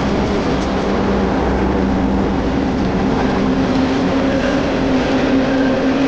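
Freight train rolling past: a steady, loud noise of railcars and wheels on the rails, with a low hum that grows stronger in the second half.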